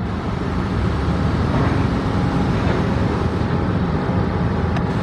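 Water pumping system draining a river work site, running with a steady mechanical drone and a faint hum.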